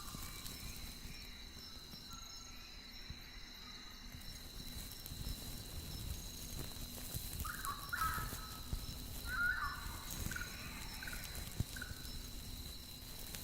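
Night-time outdoor soundscape: a steady high-pitched insect drone, with a run of short animal calls from about halfway through to near the end.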